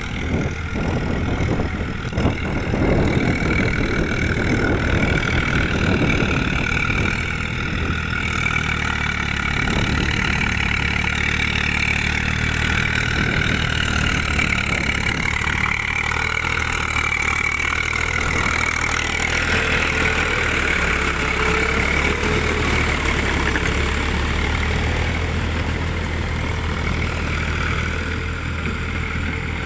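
Eicher 380 tractor's diesel engine running steadily throughout, rougher and noisier in the first several seconds.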